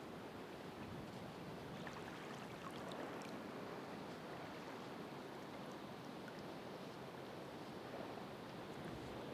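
Ocean waves breaking and washing on the shore: a steady rushing wash that swells a little about three seconds in and again near the end.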